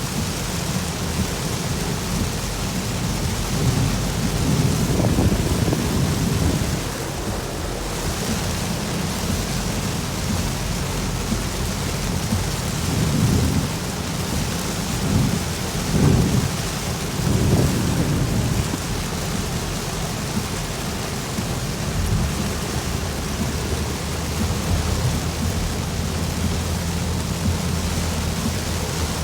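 Heavy rain falling steadily in a thunderstorm, with low rumbles of thunder rolling in a few seconds in and again through the middle.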